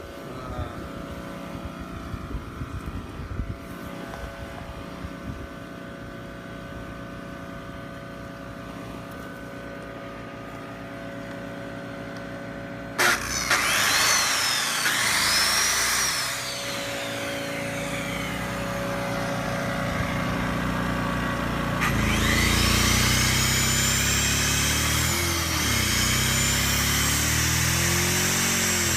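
Powerhorse 2000-watt portable inverter generator's small gas engine running steadily, then a circular saw plugged into it is switched on about halfway through, winding up to speed and coasting down after a few seconds. The saw is started again near the end and keeps running, with the generator carrying the load.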